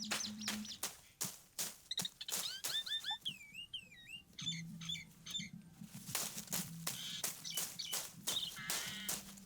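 A run of sharp knocks and taps, with birds chirping at intervals among them.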